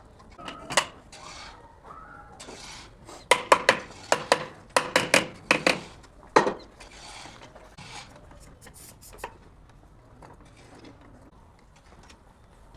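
Metal parts and tools clinking and knocking as they are handled, with a quick run of sharp, ringing clanks in the middle and fainter clicks afterwards.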